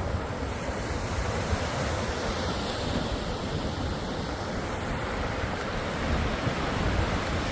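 Atlantic Ocean surf: waves breaking and washing up the beach in a steady rush, with wind buffeting the microphone.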